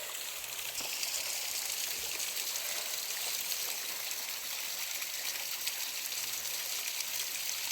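Mountain creek water rushing and splashing at a small waterfall, a steady hiss.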